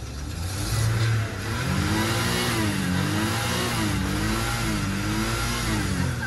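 Car engine running just after being jump-started from a dead battery, revved up and down over and over so its pitch rises and falls about once a second.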